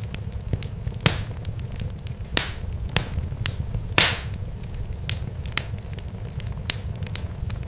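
Irregular sharp crackles and pops, a few louder snaps with a short hiss after them, over a steady low rumble.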